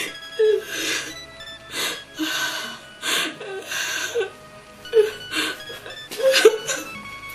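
A woman sobbing and gasping in short breathy bursts, about one a second, over soft background music.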